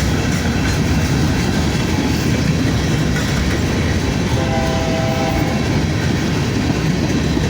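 Two trains passing close by together, with a steady heavy rumble and rail noise. About halfway through, a locomotive's multi-chime horn sounds a chord for about a second.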